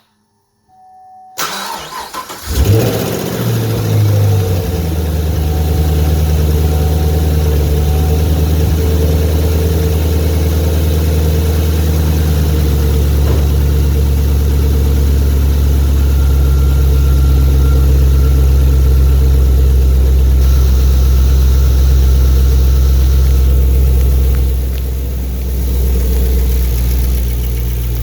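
2014 Chevrolet Camaro engine cranked by the starter, catching after about a second with a brief rise in revs, then idling steadily. The idle carries the lifter tick of a bad valve lifter.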